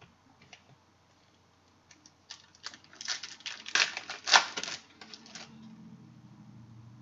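Football card pack being torn open, its wrapper crinkling and tearing in a quick flurry of rustles and clicks lasting about three seconds in the middle.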